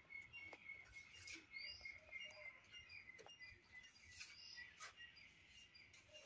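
Faint chirping of small birds: a rapid run of short high notes, with a few louder swooping calls and occasional soft clicks.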